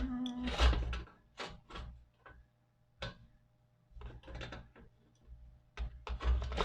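Scattered light clicks and knocks of a screwdriver and small metal parts being handled as the screws come out of a toy steam engine, growing busier near the end.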